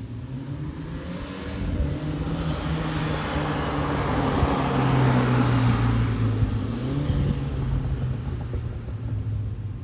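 2016 BMW Z4 sDrive28i with its turbocharged four-cylinder engine driving past: the engine note grows louder, is loudest about halfway through, then fades as the car pulls away.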